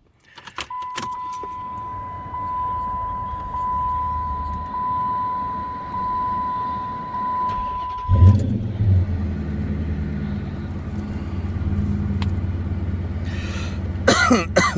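Key clicks, then a steady high warning beep for about seven seconds. About eight seconds in, the 2006 Dodge Charger Daytona's Hemi V8 starts from cold with a loud surge and settles into a steady idle.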